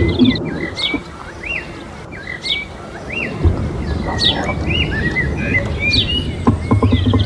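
Small birds chirping, short high calls repeated every half second or so, over a low rumble with some clattering near the end.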